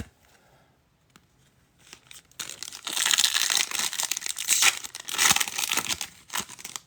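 A foil trading-card pack being torn open and its wrapper crinkled, starting about two and a half seconds in and running for about four seconds.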